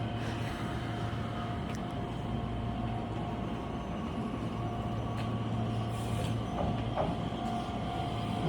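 Nishitetsu 3000 series electric train at a station: a steady rumble with a held hum.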